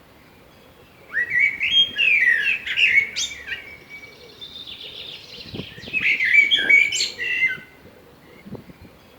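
A songbird singing in two loud bursts of quick warbling, gliding notes, starting about a second in and again around six seconds in, with softer twittering between.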